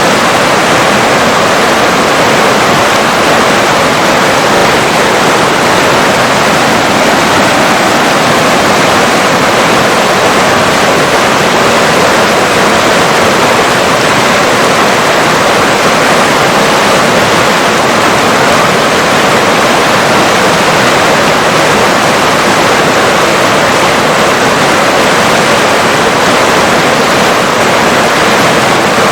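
River water rushing in a loud, steady, even flow, with no separate splashes or changes.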